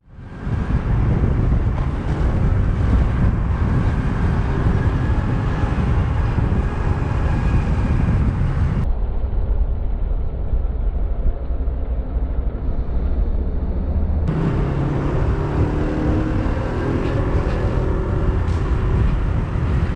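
Road and engine noise of a moving car as picked up by a dashcam microphone: a loud, steady rumble. Its sound changes abruptly about nine seconds in and again about fourteen seconds in.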